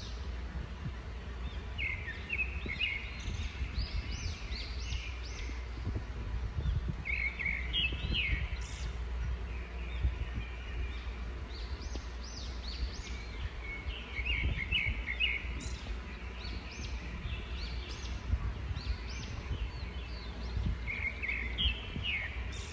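Birds chirping in several quick runs of short notes, over a steady low background rumble.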